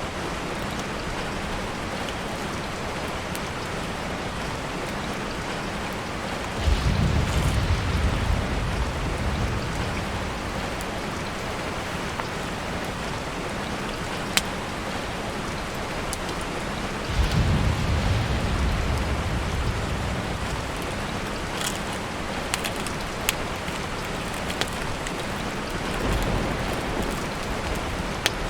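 Steady rain falling on a tarp shelter, with scattered sharp drops. Three times a low rumble swells up for a couple of seconds, about a quarter, two-thirds and nine-tenths of the way through.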